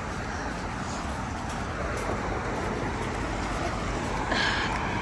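Steady road traffic noise: cars passing on a slushy, wet street.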